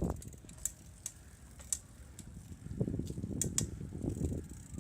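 Bicycle coasting, its freewheel hub ratcheting in scattered clicks over a low rumble from the ride.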